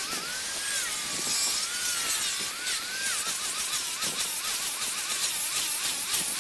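High-speed power tool working wood: a whine that keeps dipping and rising in pitch as the tool is loaded and eased off, over a gritty hiss of cutting or sanding.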